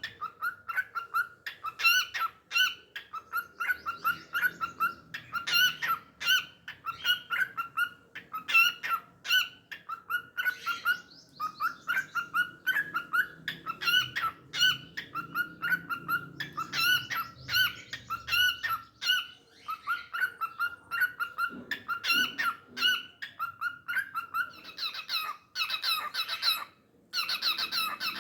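Cockatiel singing: a long run of short whistled chirps, several a second, getting louder and denser near the end.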